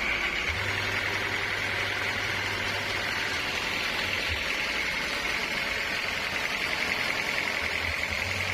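Sawmill machinery running steadily: a constant high buzzing whine over a low motor hum that drops out briefly a couple of times.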